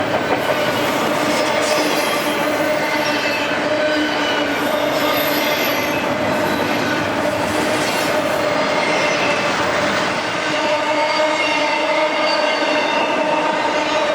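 Railcars rolling past close by, their steel wheels squealing steadily on the rails in several high, wavering tones over the rumble of the train.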